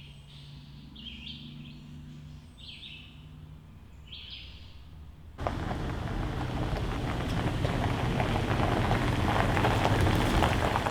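A bird chirps in short calls about once a second over a faint low hum. About five seconds in, this cuts abruptly to a loud, steady rushing noise like heavy rain that builds slightly.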